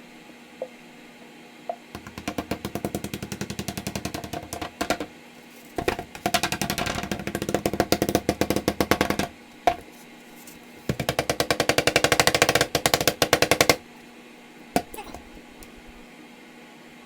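Hair dye being mixed vigorously by hand: three bursts of fast, rhythmic clacking and sloshing, each lasting a few seconds, with short pauses between them.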